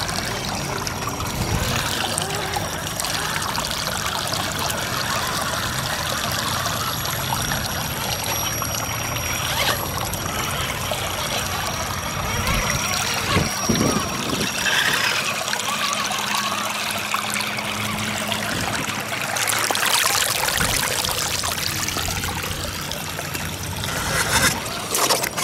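Stream water steadily trickling and flowing.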